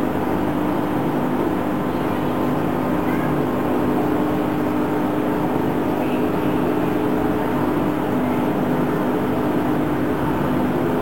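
Samsung EcoBubble front-loading washing machine running its spin cycle: a steady hum with an even mechanical whir, no thumping or rise and fall.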